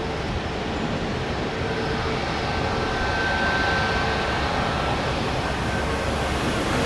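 Jet airliner engines running, a steady rumble and hiss with a faint high whine that swells in the middle.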